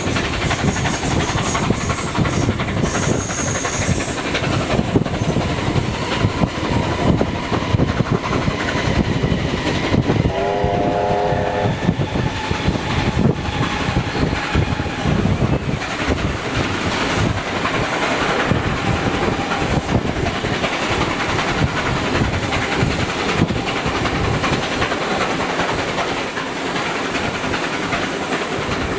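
Train running with a continuous heavy rumble and clatter of wheels on rail. About ten seconds in, a short multi-note whistle blast sounds for just over a second.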